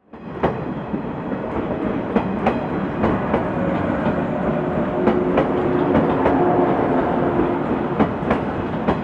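Six-car JR 115 series electric train running past along the platform. Its wheels clack irregularly over rail joints, and a steady hum comes in midway.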